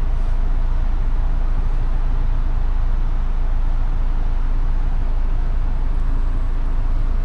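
Steady low rumble of vehicle noise that keeps an even level throughout.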